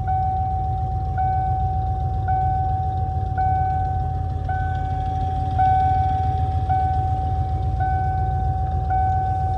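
Van engine idling after a jump start from a portable jump-starter pack; its battery is dying. Over it a steady electronic warning tone repeats with a higher blip about once a second.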